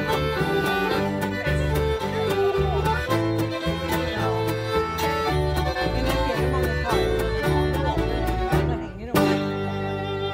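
A band playing a lively tune led by fiddle, with guitar over an alternating bass line. About nine seconds in it breaks off briefly and ends on one long held final chord.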